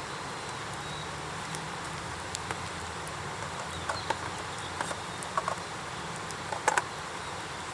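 Wood campfire burning in a fire pit: irregular sharp crackles and pops over a steady hiss, with a small cluster of louder pops near the end.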